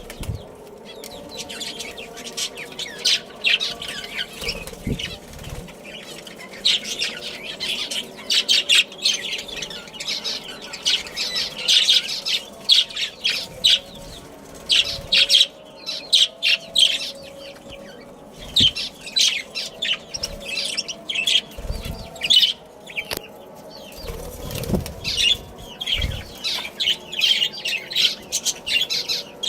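A colony of budgerigars chirping and chattering, with many overlapping short chirps and a few soft low thumps.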